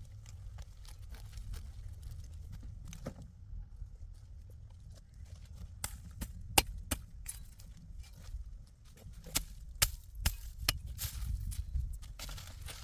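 Irregular sharp knocks and snaps, sparse at first and coming thicker from about halfway through, over a steady low rumble.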